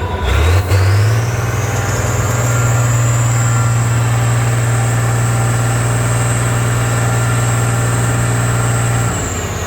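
Big truck engine of an off-road trial truck revving up about a second in and held at high revs with a steady drone and a high whine, then dropping back near the end.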